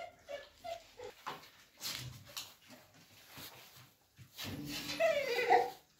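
A dog whining: a few short faint whines, then a louder drawn-out whine that wavers in pitch about four and a half seconds in.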